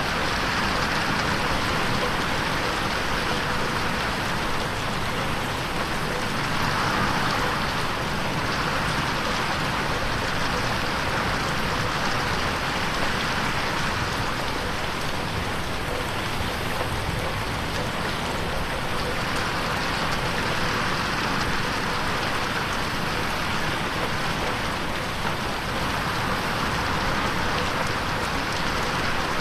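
Steady rain falling and pattering on a window pane, an even hiss that swells and eases slightly now and then.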